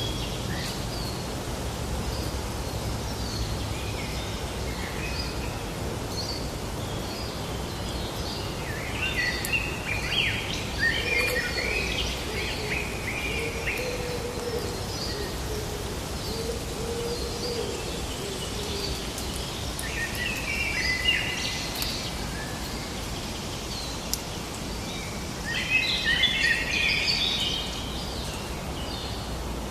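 Several birds singing and chirping over a steady outdoor background hum, with bursts of fast, twittering song several times, loudest near the end.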